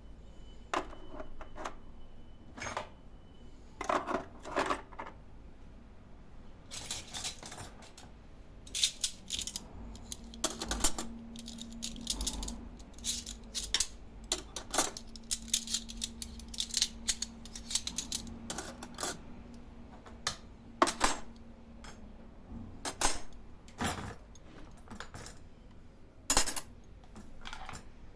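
Clinks and clatters of small hard household items, such as dishes and cutlery, being handled and set down during cleaning. A faint steady hum runs through the middle.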